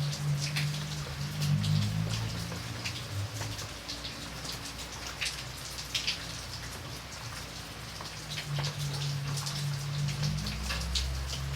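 Rain falling, with many separate drops tapping sharply on a surface close by over a steady patter. A low steady hum lies underneath, fading out a few seconds in and coming back near the end.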